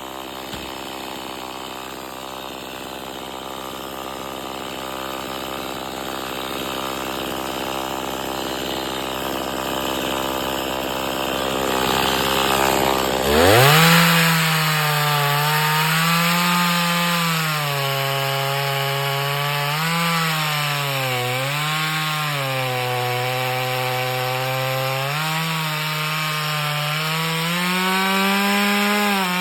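Chainsaw engine running at a low, steady speed. About halfway through it revs up sharply to full throttle and cuts into wood, its pitch sagging and recovering several times as the chain bites under load.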